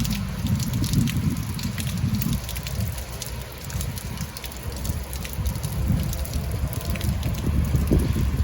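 Rain falling, with many small drop ticks, while wind buffets the microphone in a low, uneven rumble.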